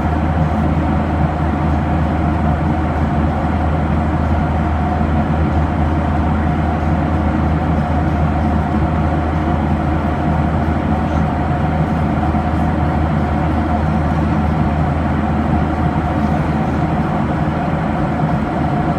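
Steady cabin drone of a Boeing 737-800 in flight: its CFM56-7B jet engines and airflow make an even rush with a constant low hum and a steady mid-pitched tone.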